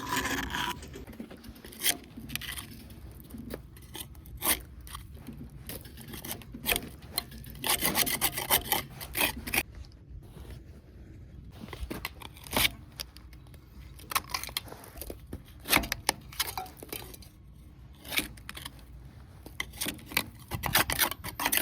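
Irregular scraping and rubbing, with scattered sharp knocks and clusters of clatter, from hand work on the metal parts of an old hammermill.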